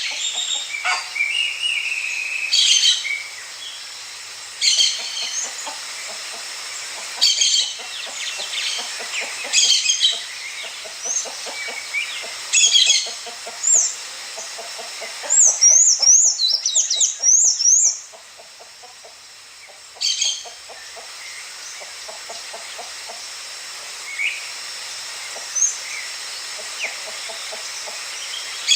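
Birds calling: a harsh, high call repeats every two to three seconds over softer background chatter, with a loud run of quick, high chirps about halfway through.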